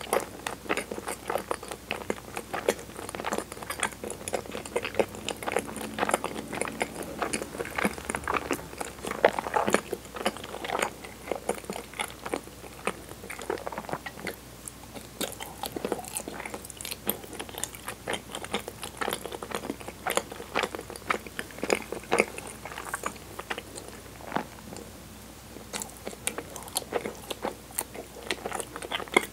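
Close-miked chewing of soft, sticky cinnamon-flavoured chigiri mochi: a continuous run of wet mouth clicks and smacks.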